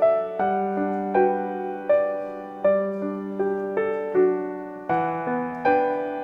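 Gentle background piano music at a slow, even pace, its notes struck and fading one after another over a sustained bass.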